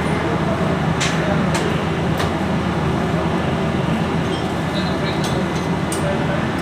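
Metal clinking a handful of times, short sharp clicks like tools or parts being handled, over a steady low mechanical hum.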